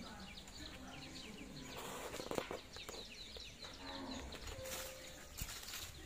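Small birds chirping in the background: rapid short chirps throughout, with a couple of brief rustles about two seconds in and again near the end.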